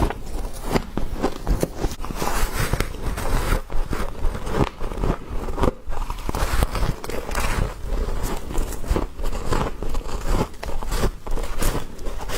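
Frost being bitten and chewed close to the microphone: a continuous run of irregular crisp crunches and crackles.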